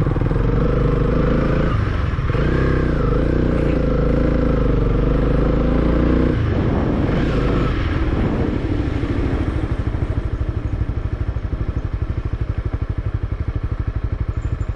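Motorcycle engine on a rough dirt trail, its revs rising and falling for about six seconds, then settling to a lower, evenly pulsing beat at slow speed.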